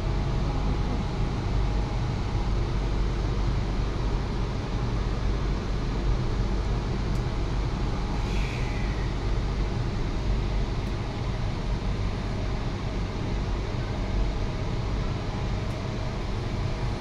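Steady ride noise inside a Sydney Trains Tangara T set double-deck electric multiple unit under way: a low rumble with a hiss over it.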